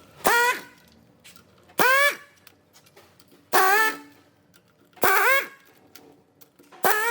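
A dog barking five times at an even pace, about every second and a half, each bark a drawn-out, high-pitched yelp.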